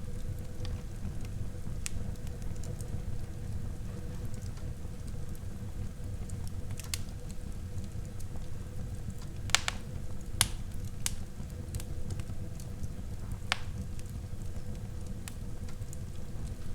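Wood fire burning in a fireplace: a steady low rumble of flames with scattered sharp crackles and pops from the burning wood. The loudest two pops come about a second apart near the middle.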